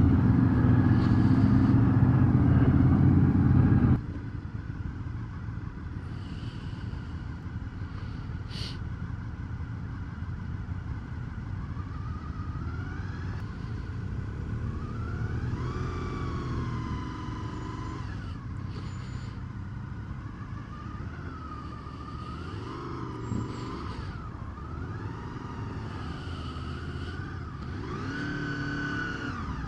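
Motorcycle engine and road noise, loud for the first few seconds, then dropping suddenly to a quieter engine sound. In the quieter part the engine pitch rises and falls several times as the revs change.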